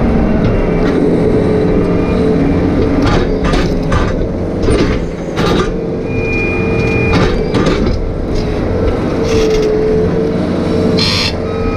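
Excavator engine running steadily under work, with repeated metallic clanks and knocks and a brief high squeal about six seconds in.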